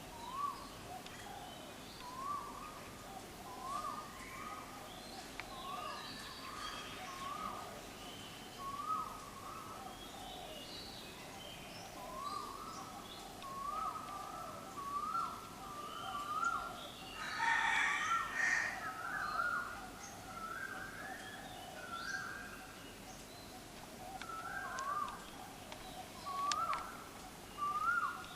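Birds calling: a short up-slurred call note repeated again and again, every second or so, with a louder, harsher burst of calling about two-thirds of the way through.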